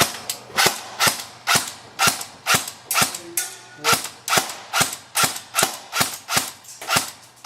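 Airsoft rifle firing a fast string of single shots, about three a second, each a sharp crack with a short ringing tail.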